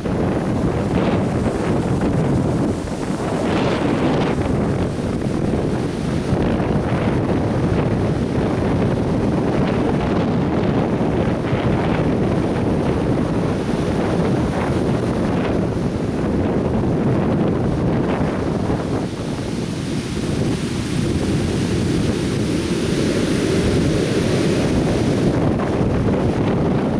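Atlantic Ocean surf breaking and washing on a sandy beach in a continuous rumble that swells and eases, with wind buffeting the microphone.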